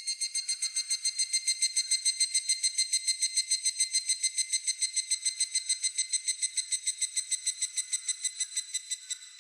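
Higurashi (evening cicada) calling: a long run of rapid, ringing repeated notes, about eight a second, that swells early and then slowly fades until it stops near the end.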